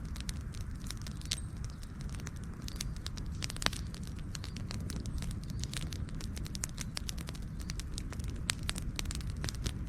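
Wood fire burning, with a steady low rumble and frequent irregular sharp crackles and pops, one louder pop a little past a third of the way in.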